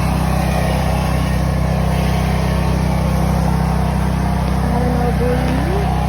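Steady, loud, low rumble of city vehicle noise. Near the end, a short pitched sound glides upward.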